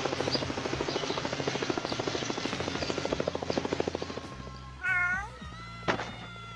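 A cat meows briefly about five seconds in and starts another, falling meow near the end, over a steady low musical hum. Before the first meow there is a rapid pulsing sound for about four seconds.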